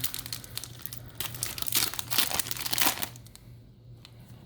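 Foil booster pack wrapper crinkling and being torn open, a dense crackle for about three seconds that then dies down.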